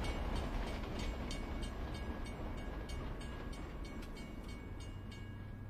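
Train running on the rails: a steady rumble with regular wheel clicks about three a second, slowly fading.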